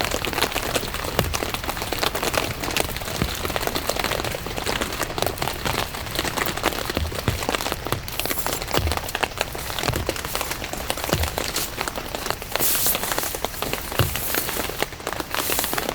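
Steady rain falling, with many separate raindrop hits ticking on a surface.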